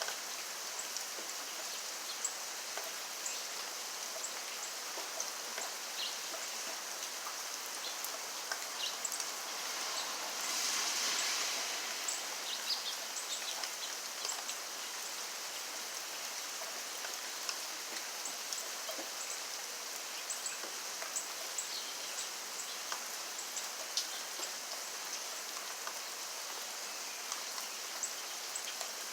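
Steady rain falling, an even hiss dotted with sharp ticks of individual drops striking a surface. About ten seconds in it grows louder for a couple of seconds, then settles back.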